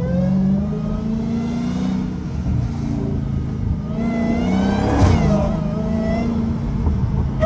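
Straight-piped Dodge Challenger Hellcat's supercharged 6.2-litre Hemi V8 driving at low speed. It revs up gently, its pitch climbing to a peak about five seconds in, then easing off.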